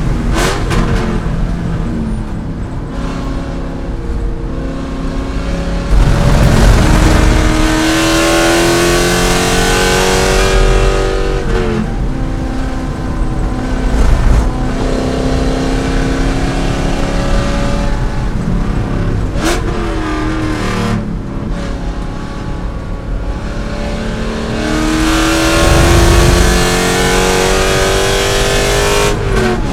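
A C5 Corvette's V8 at racing speed: three long pulls in which the engine note climbs steadily under full throttle, each broken off by a sudden lift for braking or a shift, with lower running in between. Tyre and wind noise lie underneath throughout.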